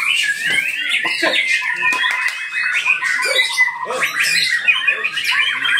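Several white-rumped shamas singing at once in competition, a dense, unbroken tangle of rapid whistles, trills and harsh notes.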